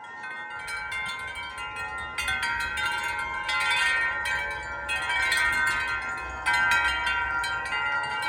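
Large tuned wind chimes struck over and over by a strong gust, many tones ringing on over one another in a dense wash. They grow louder and busier over the first few seconds as the gust builds.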